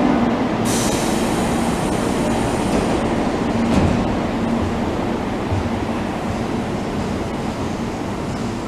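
Tobu 10050 series electric commuter train pulling out of the station, with a steady running noise of wheels and traction motors that slowly fades.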